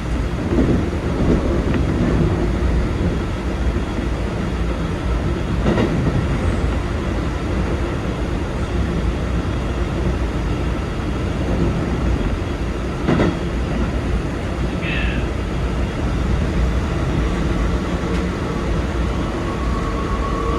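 Keikyu 2100 series electric train running at speed, heard from the driver's cab: a steady low rumble with a few sharp knocks from the wheels passing over rail joints.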